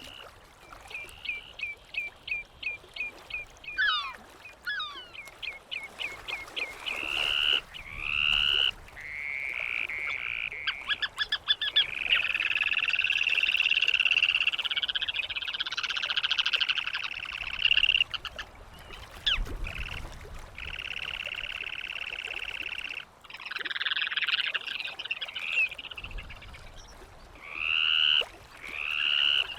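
Gulls calling. A quick series of short calls, about three a second, comes first, then longer drawn-out calls with several birds overlapping, and more calls near the end.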